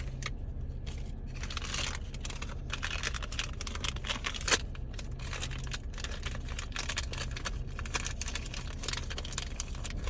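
Small plastic wrappers being crinkled and torn open by hand, a dense run of irregular crackles and clicks, with one louder click about four and a half seconds in.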